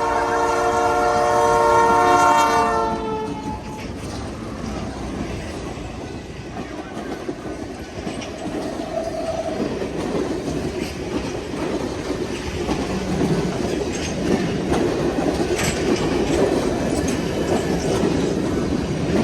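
A locomotive air horn sounds a steady chord and cuts off about three seconds in. Then the train rolls by with a continuous rumble and wheels clicking over the rail joints.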